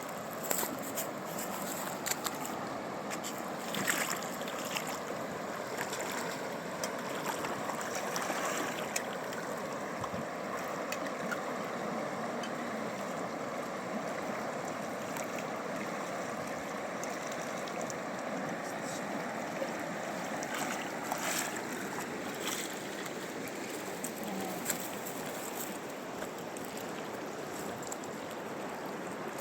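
A fast mountain river rushing steadily, with a few short knocks or clicks over it.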